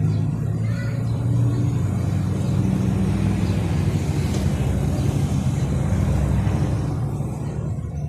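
Motor vehicle engine running in street traffic, a steady low hum that eases slightly near the end.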